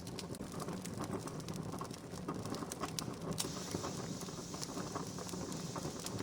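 Wood campfire crackling, with irregular sharp pops and snaps over a steady low rumble of flames. About halfway through a steady hiss joins in.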